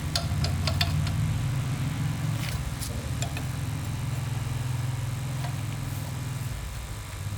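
Engine running steadily at idle, a low even rumble, with a few light metallic clicks near the start.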